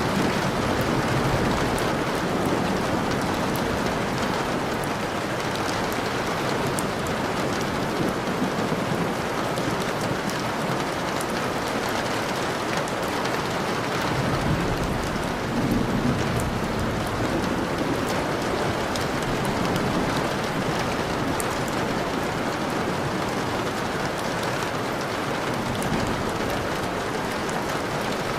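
Steady, dense rainfall with raindrops pattering on surfaces, and a low rumble swelling briefly about halfway through.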